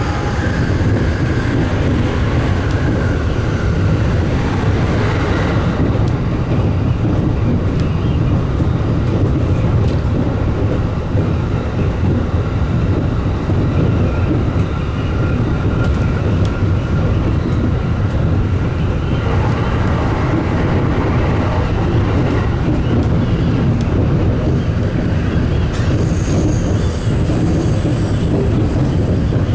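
Electric commuter train running between stations, heard from aboard: a steady loud rumble of wheels on rail, with a faint whine that comes and goes.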